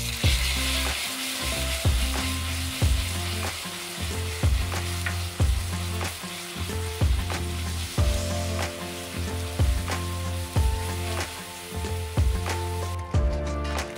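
Food sizzling in a hot pan, a steady hiss that cuts off about 13 seconds in, under background music with a steady beat.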